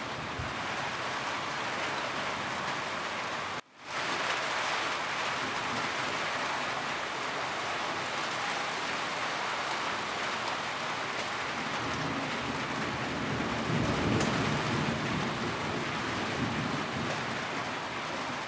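Steady rain pattering on a roof, an even hiss of drops. There is a brief dropout about four seconds in, and a low rumble of thunder swells in the second half.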